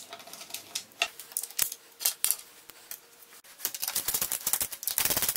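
Light clicks and taps of a crosshead screwdriver and small plastic and metal parts being handled while screws are driven, turning into a fast run of ticking in the last couple of seconds.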